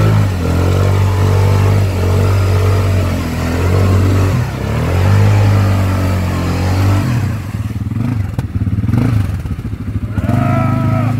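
ATV engine revving hard and holding high revs, its pitch dipping and rising a few times. About seven seconds in it drops back to a lower, quieter run, then revs up again near the end.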